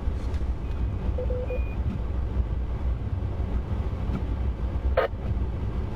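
Steady low rumble of a vehicle driving, heard from inside the cab. A short beep sounds a little over a second in, and a brief sharp crackle comes near the end.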